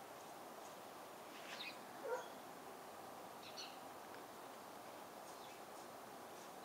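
Faint birds chirping in short bursts a few times over steady outdoor background hiss, with one brief lower-pitched call about two seconds in, the loudest moment.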